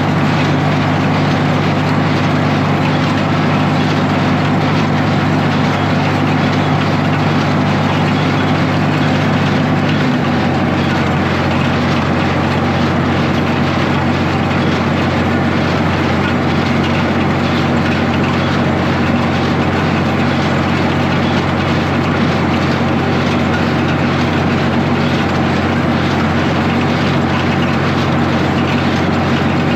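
Tractor engine running steadily while pulling a New Holland 275 hay baler, with the baler's machinery working. The engine note changes slightly about ten seconds in.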